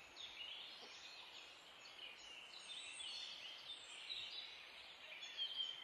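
Faint birdsong: many short chirps and quick warbling notes from small birds, going on all through.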